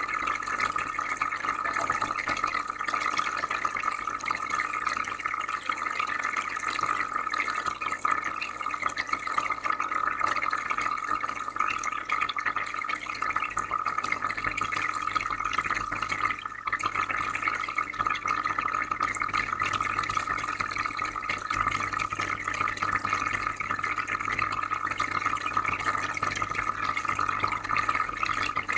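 Aquarium filter running, with steady bubbling and trickling water over a low filter hum.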